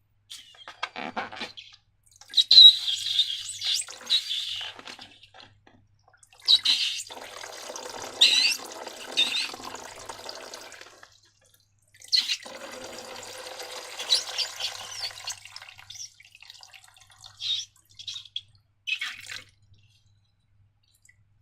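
Wet, sticky slime squelching and sloshing in three longer stretches, then a few short squelches near the end.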